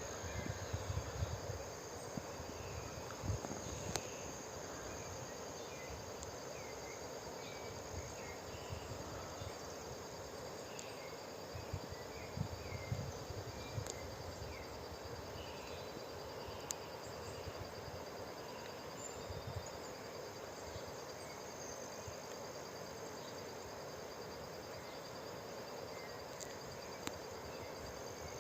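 Ecuadorian forest ambience: a steady high-pitched trilling of insects over a soft background hiss, with scattered short chirps. Low rumbles come and go in the first few seconds and again about halfway through.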